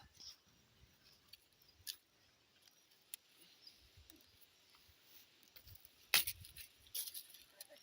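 Scattered small clicks and taps, with a sharper click and low knock about six seconds in and a few more clicks just after.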